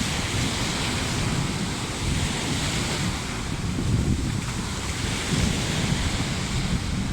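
Sea waves washing onto a beach in a strong wind, with wind buffeting the microphone in a low, uneven rumble.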